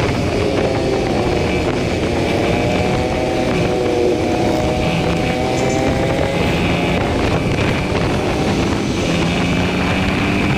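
Yamaha R15's single-cylinder engine running steadily under way in fifth gear, its pitch dipping a little midway and then rising again as the speed changes, with wind rushing over the microphone.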